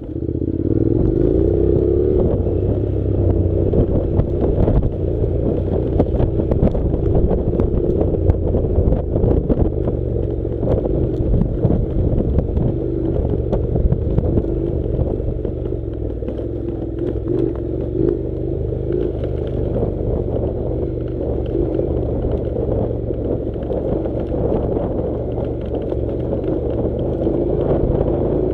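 Honda NC700's parallel-twin engine running steadily as the motorcycle rides a rough off-road track, with frequent clatter and knocks from the bike over the rough surface. The engine picks up right at the start.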